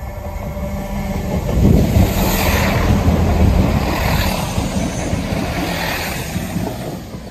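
Passenger train passing close at speed: a loud rush and rumble of wheels on rail that peaks about two seconds in, surges roughly every two seconds and dies away near the end.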